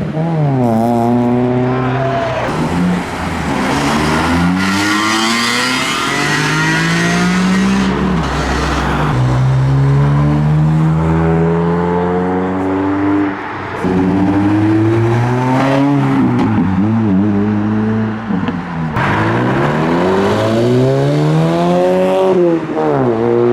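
Modified cars' engines revving hard as they accelerate away, rising in pitch and dropping back several times with gear changes and throttle lifts.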